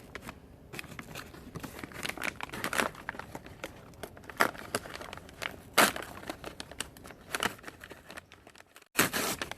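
A firelog's wrapper being torn open along its seam and handled, irregular crinkling and tearing rustles, with a louder rustle near the end.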